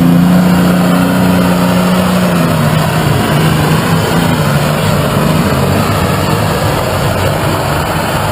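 Pulling tractor's engine running flat out under load down the pulling track. A strong steady engine note holds for the first couple of seconds, then weakens into a rougher, slightly quieter sound.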